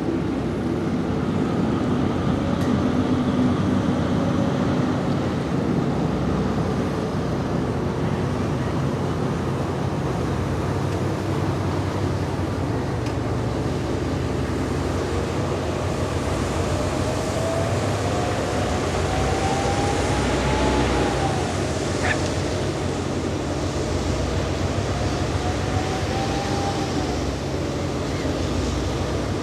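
Steady low drone of a boat's engine, with wind and water noise over it. A faint whistling tone slowly rises and falls twice in the second half.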